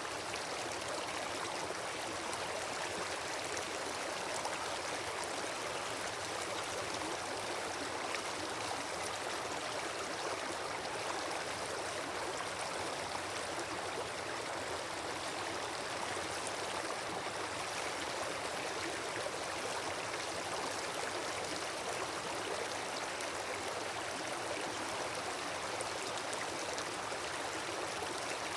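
Wood campfire burning: a steady hiss of the flames with fine, faint crackling.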